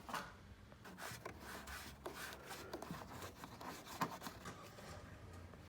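Hands working a plastic protective cover loose: rubbing and scraping of plastic with scattered small clicks, and one sharper click about four seconds in.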